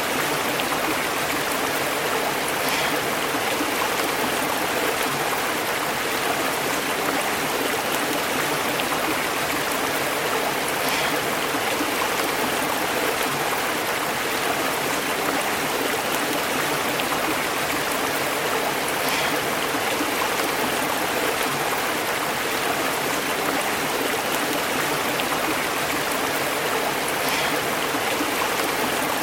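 A stream burbling steadily as it runs over rocks, with a few faint splashes standing out now and then.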